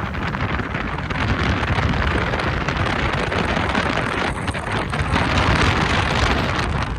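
Wind rushing over the microphone of a moving motorcycle, with road and engine noise underneath, a little louder from about a second in.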